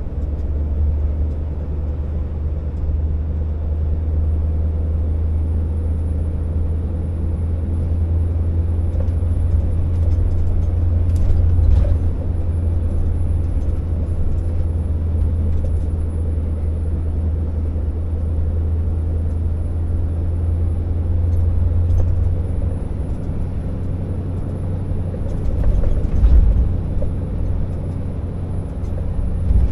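Scania R650 timber truck's V8 diesel engine running steadily with a deep drone as the loaded rig drives, with a few brief knocks about a third of the way in and again near the end.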